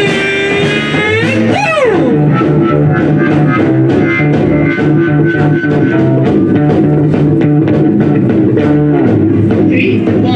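Rock band playing live: electric guitar over a steady bass line, with regular drum hits.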